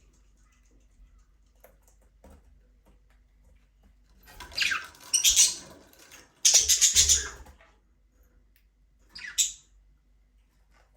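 Budgerigars giving harsh, noisy squawks in three bursts: two longer ones about four and six and a half seconds in, and a short one near the end.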